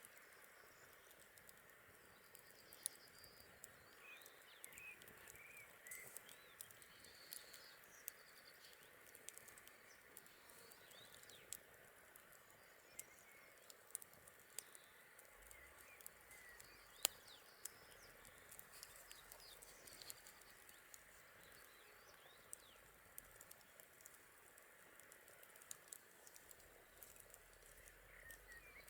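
Campfire crackling, with irregular sharp pops, a few of them loud, while small birds chirp faintly in the background.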